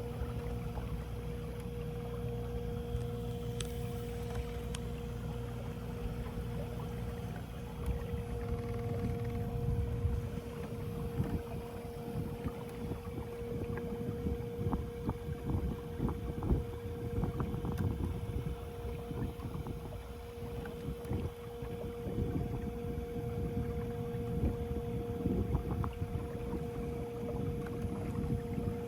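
Small boat's electric trolling motor running with a steady whine, while irregular knocks and splashes come from the water and hull from about eight seconds in.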